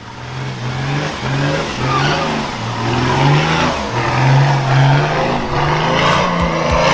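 Nissan Patrol's diesel engine revving up and down under load as the four-wheel drive climbs a muddy slope, its pitch rising and falling again and again.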